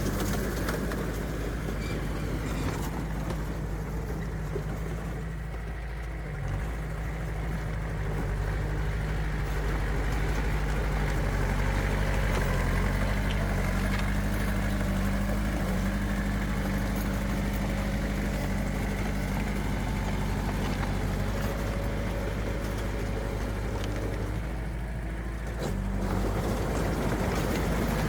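Diesel engine of heavy earthmoving machinery running steadily, easing off briefly twice and picking up again.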